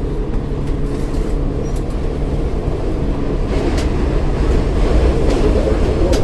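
City bus in motion, heard from the rear seats inside the cabin: a steady low engine drone and road rumble, getting a little louder in the second half, with a few faint rattles.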